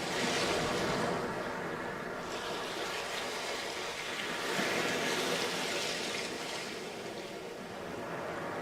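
Sea waves breaking and washing up a sandy beach, with two surges of surf, one just after the start and a second about halfway through.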